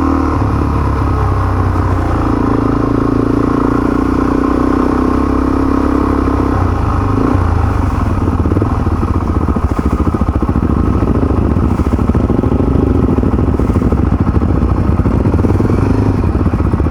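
Motorcycle engine running steadily while riding, its note shifting a little about seven seconds in.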